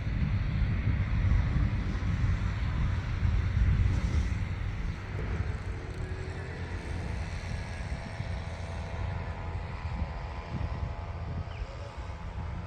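Wind buffeting the microphone: an uneven, gusty low rumble that is loudest in the first half and eases a little after the middle.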